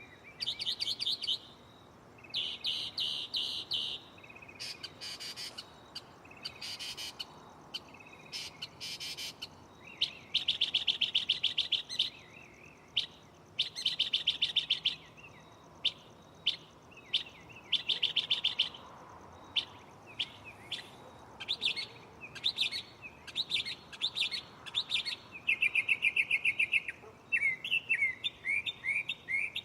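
Northern mockingbird singing its mimicked repertoire: each phrase is a rapid string of repeated notes held for a second or two, then it switches to a different phrase, over and over.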